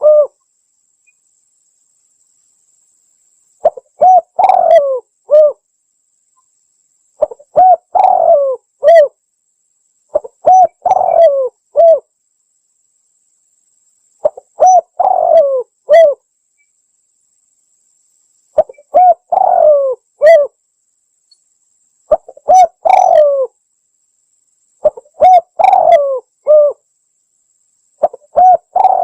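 Spotted dove (tekukur) cooing: a phrase of several low coos, repeated about every three to four seconds, used as a lure call to draw in other doves.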